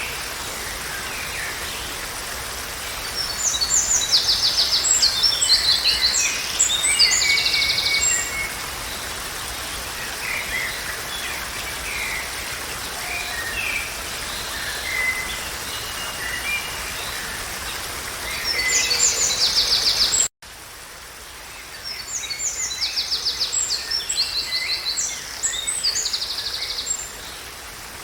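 Songbirds singing, with bouts of rapid trills and chirps, over a steady hiss of background noise. About two-thirds of the way through the sound cuts out for an instant, then the birdsong carries on over a quieter hiss.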